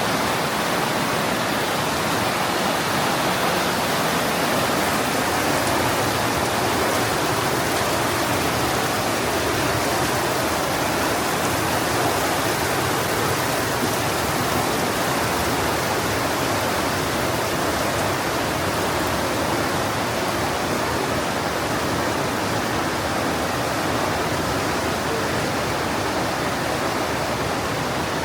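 The Partnach River, a glacial-meltwater mountain stream, rushing through a narrow limestone gorge: a loud, steady, even rush of water with no breaks.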